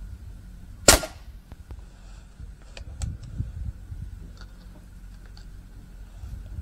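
Snowpeak P35X PCP air rifle firing a single shot about a second in, a sharp crack, followed by a few faint clicks of handling.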